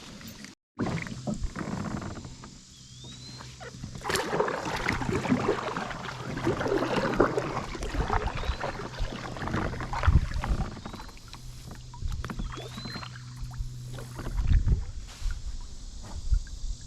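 Kayak on a river: water sloshing and splashing with small knocks and a few heavier thumps against the hull. A short rising chirp repeats faintly about every four to five seconds.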